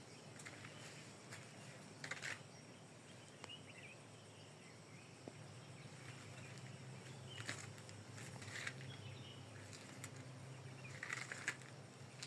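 Faint outdoor ambience: a low steady hiss with a few brief, faint sounds scattered through it, about two, seven and a half, eight and a half and eleven seconds in.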